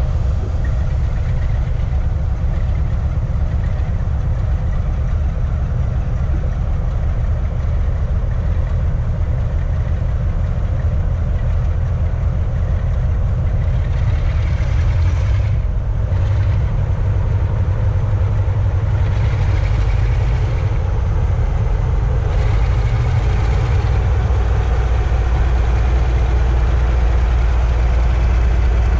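A heavy engine idling with a steady low rumble, which grows deeper and stronger in the last few seconds; it is most likely a diesel locomotive.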